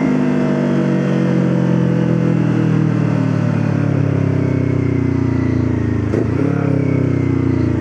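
Motorcycle engine running under way, its pitch falling slowly and steadily, with a brief break about six seconds in.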